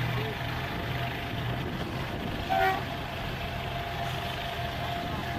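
Heavy truck engine running steadily with a pulsing low drone. About two and a half seconds in there is a brief high pitched toot.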